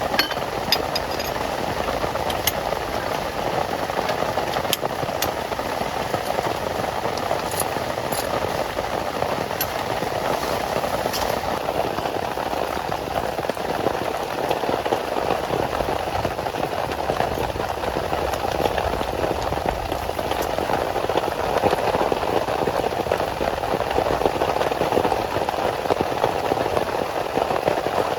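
Heavy rain falling steadily, with scattered sharp taps of drops in roughly the first twelve seconds.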